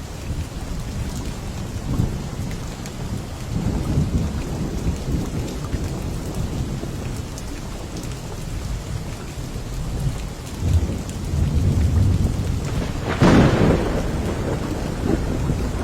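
Steady rain with low rolling thunder that swells several times, and a sharper thunderclap near the end.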